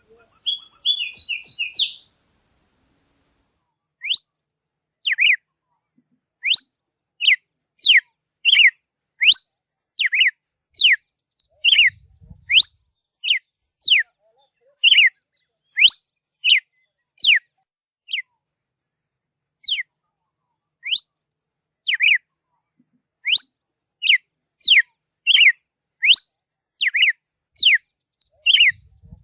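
A songbird singing: a quick jumbled warble at first, then a long series of short, sharp whistled notes at about one and a half a second, some sliding up and some down, with a few brief pauses.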